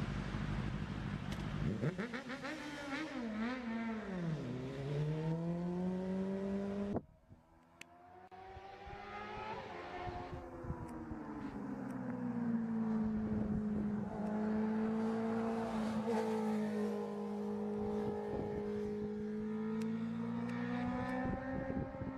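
Motorcycle engine on the move. The revs drop steeply a couple of seconds in, then climb again, before the sound cuts off abruptly about seven seconds in. It comes back as a steady engine note, cruising with gentle rises and dips in revs.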